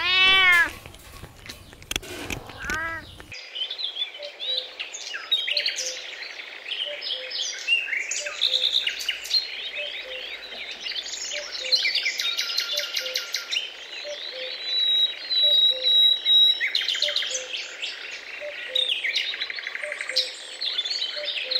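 A cat meows twice, a long meow and then a shorter one. Then a chorus of many small birds chirping and trilling over one another, with a faint steady pipping call repeating underneath.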